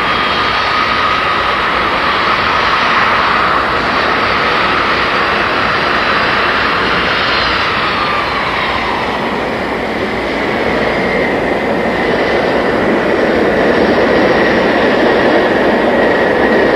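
Jet engines of the first Boeing 747, four Pratt & Whitney JT9D turbofans, running while the airplane taxis through turns: a steady rush of engine noise with high whining tones that slide in pitch, growing louder in the second half.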